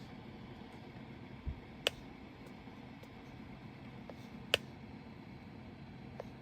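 A few sharp, light clicks of a diamond painting pen pressing resin drills onto the adhesive canvas: two clear clicks about two and four and a half seconds in, with fainter ones between, over a low steady room hum.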